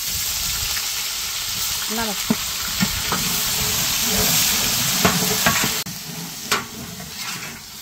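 Mutton liver, fat and heart frying in oil with spices in a pan, a loud steady sizzle with a spatula stirring and knocking against the pan now and then. The sizzle drops off sharply near the end.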